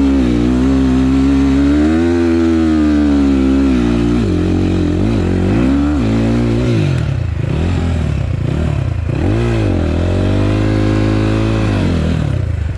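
Enduro motorcycle engine revving up and down as it is ridden, its pitch rising and falling every second or two.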